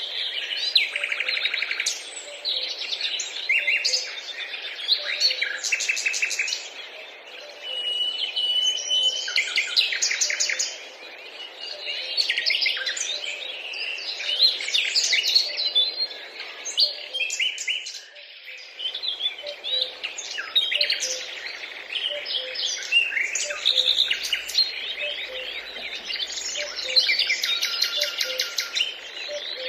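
Small birds chirping and twittering, with many short, overlapping chirps and trills.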